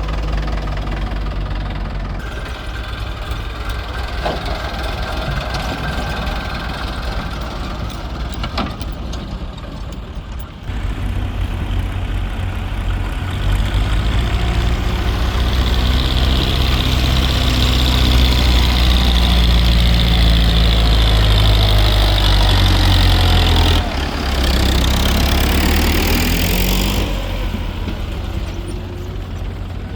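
Diesel tractor engine labouring under load as it hauls a heavy mud-filled trolley, growing louder about a third of the way in, holding strong for about ten seconds, then fading near the end.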